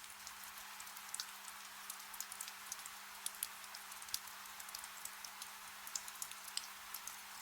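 Soft, steady rain: an even hiss with many scattered drops ticking sharply on a surface, over a faint steady low hum.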